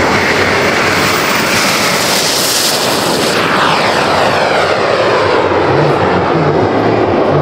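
Turbine engine of a radio-controlled model jet flying past: a loud jet roar with a high whine that peaks about three seconds in, then falls in pitch as the highest part of the sound drops away.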